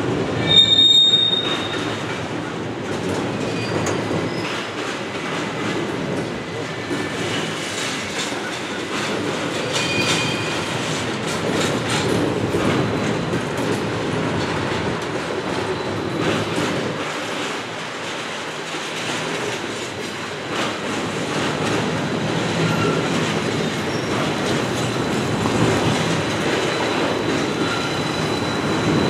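Loaded double-stack container cars of a long intermodal freight train rolling by, with a steady rumble and clatter of wheels on rail. Brief high wheel squeals cut through, the sharpest and loudest about a second in.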